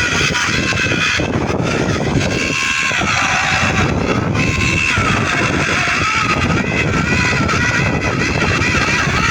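Cordless electric chainsaw running and cutting wood: the chain rattles and the motor whine wavers in pitch as the saw bites, dipping twice in the first half.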